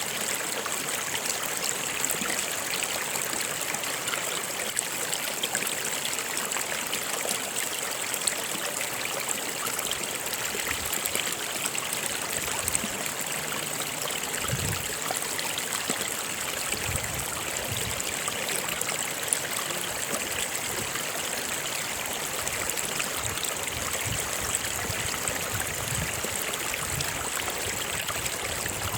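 A stream or small river running over rocks, a steady rushing and trickling of water.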